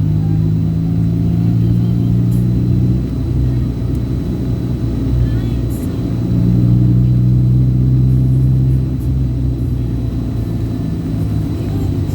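A vehicle engine running on the road, a steady low hum that drops about three seconds in, rises again around six seconds and drops once more near nine seconds.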